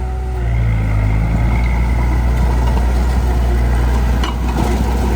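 Heavy construction machine's diesel engine running steadily under load, its level rising about half a second in, with a brief knock about four seconds in.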